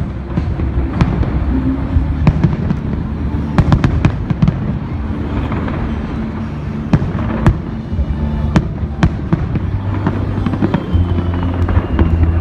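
Aerial fireworks going off in an irregular string of sharp bangs and crackles, over music playing underneath.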